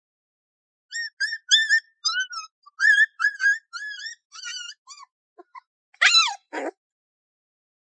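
Puppy whimpering: a run of short, high, squeaky whines, then about six seconds in a louder whine that falls steeply in pitch and a lower one after it.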